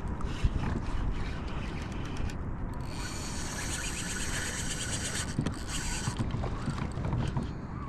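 Fishing reel being wound, a whirring with fine, fast clicks for about two seconds midway, over wind and water noise around the kayak, with a few light knocks.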